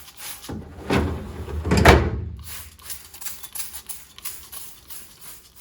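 Small knocks and clatter of items being handled in a refrigerator, with two louder thuds about one and two seconds in.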